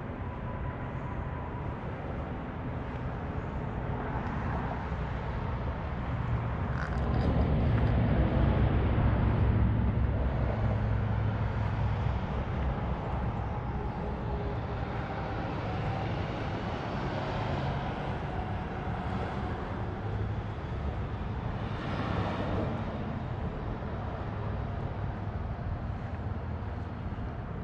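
Jaguar XK120's straight-six engine running with a low, pulsing rumble, louder for several seconds about a quarter of the way in before settling back.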